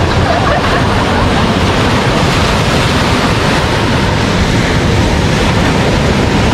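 Ocean surf washing onto the beach: a steady rush of breaking waves, with wind buffeting the microphone.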